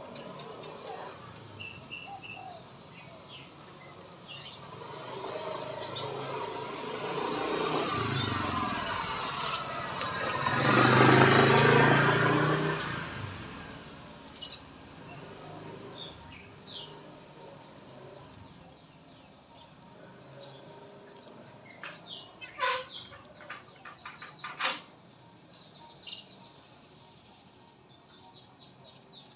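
A murai songbird chirping and calling, while a vehicle passes close by: its noise builds over several seconds and peaks about eleven seconds in, the loudest sound, then fades. Later the bird's sharp calls come in quick clusters.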